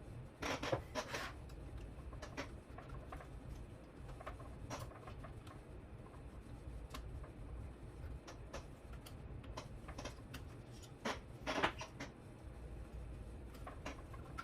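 Small handling noises from work on a model helicopter's wiring and parts: scattered light clicks and rustles, with two louder short scraping bursts about half a second in and at around eleven seconds, over a faint low hum.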